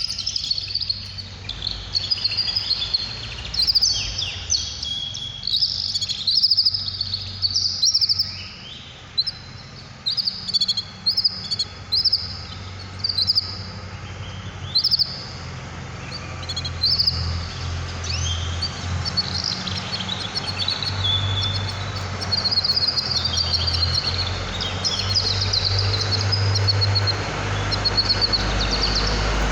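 Small caged songbirds chirping and singing in quick high twittering phrases, with a steady low hum underneath that grows louder in the second half.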